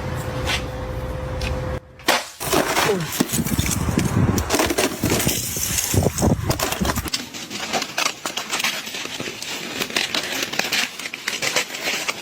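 Ice breaking and shattering: a dense run of small cracks and clinks after a steady noise that cuts off about two seconds in.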